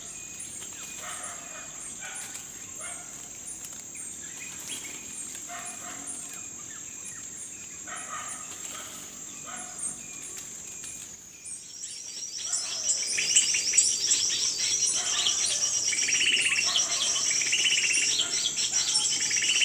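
Small birds chirping: repeated short calls about once a second over a thin, steady high-pitched trill, then about twelve seconds in a much louder, rapid high chattering starts up and continues.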